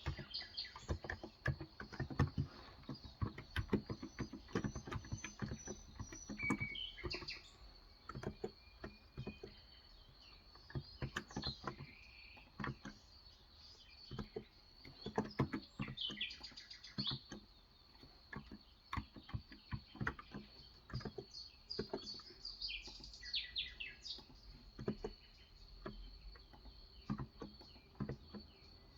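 Typing on a Cox Endeavor electrocapacitive (Topre-style, 35 g) tenkeyless keyboard: irregular bursts of soft keystrokes with short pauses. Small birds chirp outside over a steady high-pitched whine.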